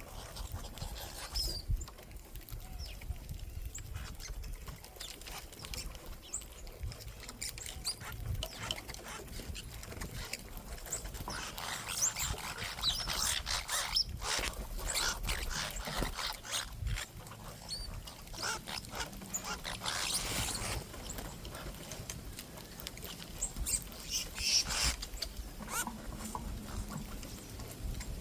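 Small birds at a backyard seed feeder: scattered short high chirps among frequent clicks and rustling flurries, busiest in the middle and again near the end.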